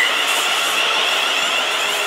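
ScotRail Class 380 electric multiple unit passing, its wheels running on the rails with a steady rush of noise and a high, wavering squeal.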